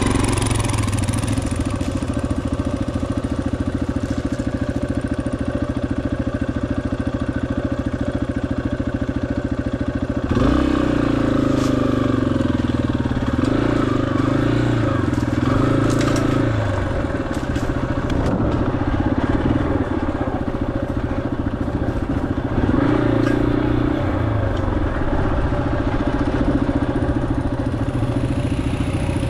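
Yamaha XT250's single-cylinder four-stroke engine running as the motorcycle rides a rough dirt forest road, with gravel crunching under the tyres. The engine note rises and falls as the throttle is worked, about a third of the way in and again later.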